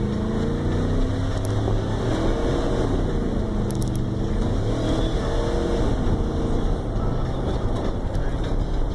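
Truck engine pulling under acceleration, its pitch climbing, dropping back and climbing again as it goes through the gears.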